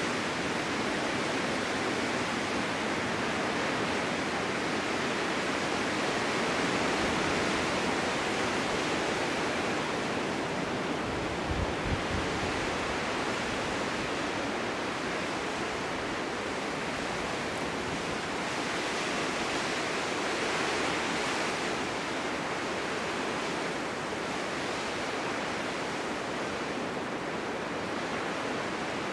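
Snowstorm wind blowing steadily across an open forest meadow, a continuous hiss that slowly swells and eases, with one brief low thump about twelve seconds in.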